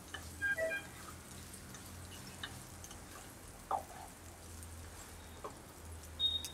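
Onion, green chillies and curry leaves frying gently in oil in a non-stick kadhai, a faint sizzle and crackle under the stirring. A spatula scrapes and taps against the pan a few times, the last tap near the end ringing briefly.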